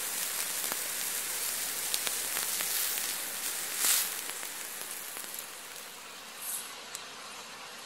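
Freshly fried beef cutlet crackling on a stone slab, a steady fine hiss with tiny pops. About four seconds in there is a louder scrape as wooden chopsticks lift a piece, and the crackle fades soon after.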